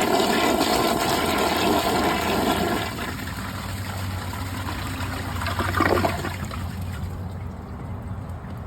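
2018 Mansfield Summit dual-flush toilet flushing from a tank filled slightly below the water line. A loud rush of water lasts about three seconds, then drops to a quieter steady draining, with one brief louder surge about six seconds in.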